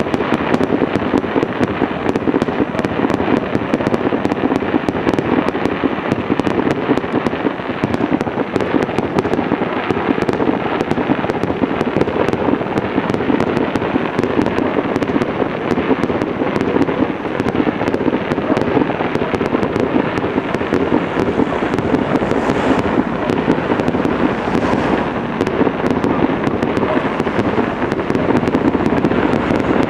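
Fireworks display at full intensity: a dense, continuous barrage of bangs and crackles overlapping without a pause.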